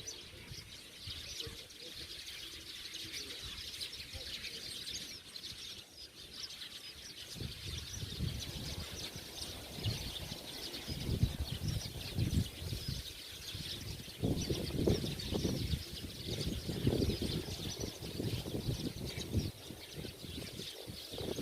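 A dense chorus of many small birds chirping continuously. From about a third of the way in, an uneven low rumble runs underneath.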